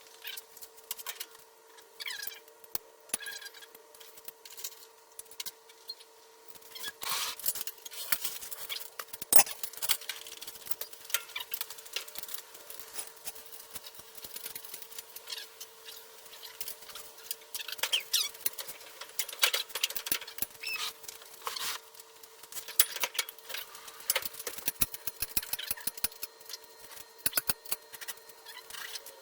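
Irregular light clicks, clinks and a few short squeaks of hand tools at work on an engine, over a steady hum.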